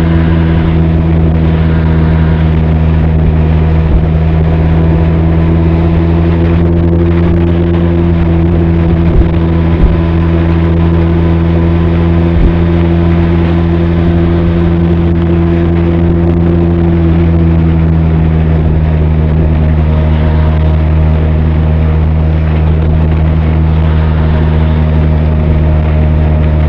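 Benelli TRK 502's parallel-twin engine and exhaust running steadily at cruising speed. The note eases slightly lower a little over halfway through, with a few light knocks around the middle.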